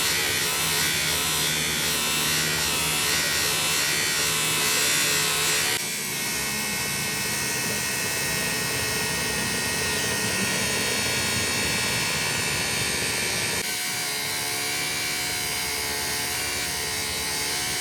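Workshop machinery running with a steady motor hum and hiss. The sound changes abruptly about six seconds in and again about fourteen seconds in.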